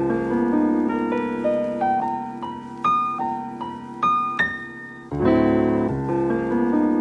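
Piano music: a melody of single struck notes over held chords, with a fuller, louder low chord coming in about five seconds in.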